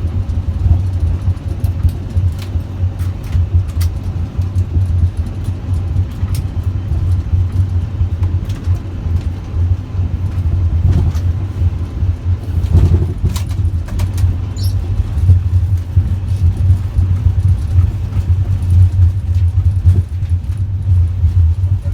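Steady low rumble inside an airliner cockpit on the ground after landing, with a few faint clicks now and then.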